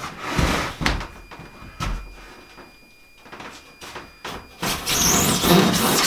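Wooden knocks and clunks as an interior wall board is handled and fitted, followed near the end by a longer, louder scraping rustle of wood against wood.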